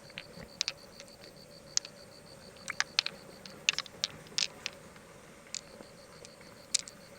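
About a dozen irregular sharp clicks and taps of hard objects knocking together, with a faint high pulsing tone in the background.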